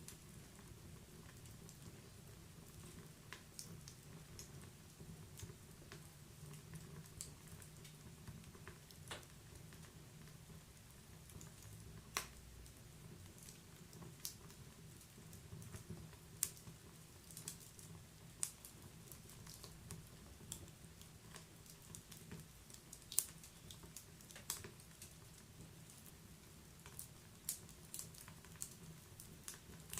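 Wood fire crackling in a fireplace: irregular sharp pops and snaps of burning logs, a few seconds apart, over a faint low steady rumble.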